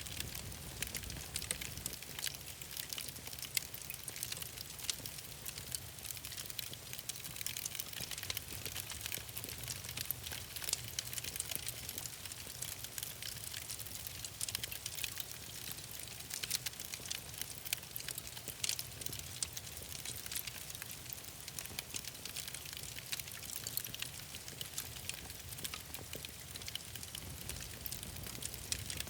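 Wood fire crackling steadily, with many small pops and snaps over a low rumble of flame.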